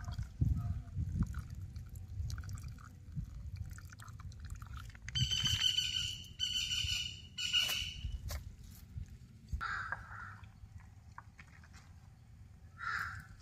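A bird calls three times in quick succession, each call a short pitched cry, over a steady low rumble.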